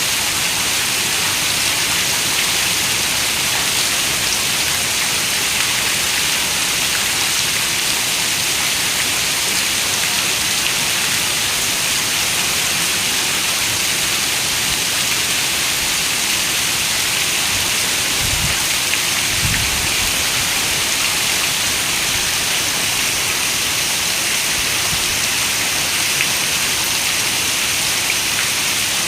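Heavy rain falling on a window, a dense, steady hiss. Two brief low thumps sound about two-thirds of the way through.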